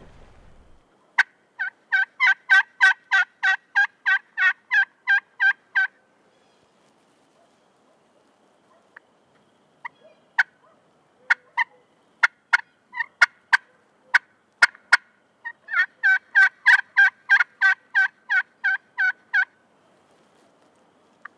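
Hen turkey yelps made on a turkey call: a quick run of about eighteen two-note yelps, then a scatter of sharp, clucking cutts in the middle, then a second run of yelps near the end. This is calling meant to bring in gobblers.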